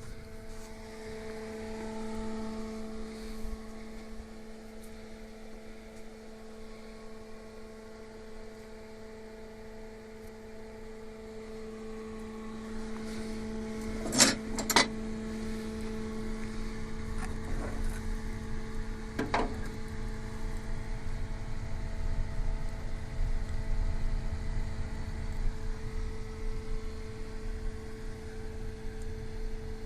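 Wood-gasification (pyrolysis) boiler working without its fan: a steady hum, with a low rumble that grows about halfway through. Two sharp knocks come close together about halfway, and a third follows a few seconds later.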